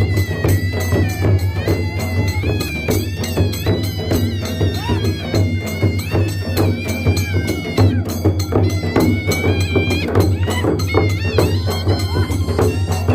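Traditional Marathi procession music: fast, continuous drumming with jingling metal percussion, over a steady low hum, with a wavering high melody line.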